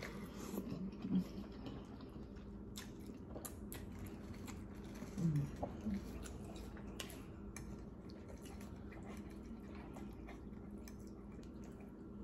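Close-up chewing of spaghetti, with soft wet mouth sounds and scattered sharp clicks. A short low vocal sound comes about a second in and another about five seconds in.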